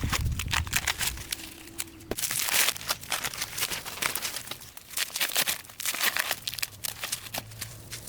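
Dry rustling and crackling with many sharp snaps and clicks, as of plants and leaves being handled and broken during harvesting.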